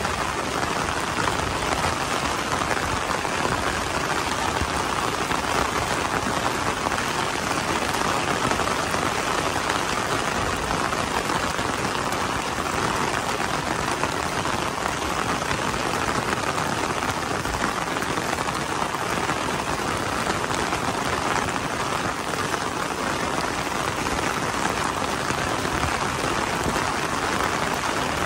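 Steady rain pattering on a fabric umbrella held just overhead.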